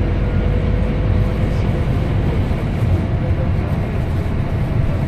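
Scania K270UB single-deck bus heard from inside the cabin while under way: a steady diesel engine drone and road noise, with a faint even whine from the drivetrain.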